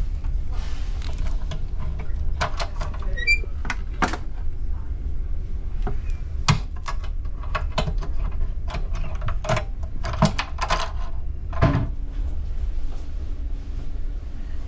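Steady low rumble inside an ETR 500 high-speed train coach, broken by scattered sharp clicks and knocks from the cabin. A brief rising run of high tinkling notes comes about three seconds in.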